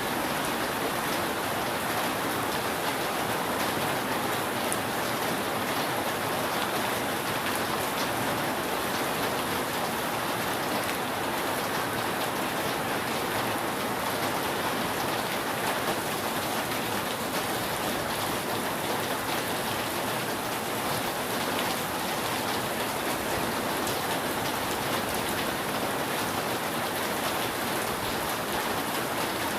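Steady rain falling on a roof: an even hiss with scattered drop ticks and no thunder.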